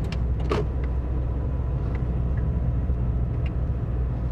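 Steady low road and engine rumble inside the cab of a moving truck, with a brief rustle about half a second in and a few light clicks.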